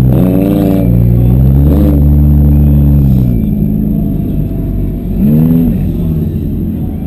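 Demolition derby car engines running hard, with a steady engine note that drops away about three seconds in, then a quick rev up and down near the end.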